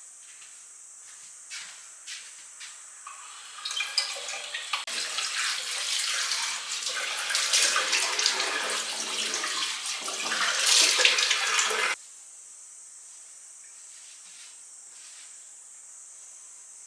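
Water running from a tap into a sink for about eight seconds, then stopping abruptly, after a few light clicks and knocks.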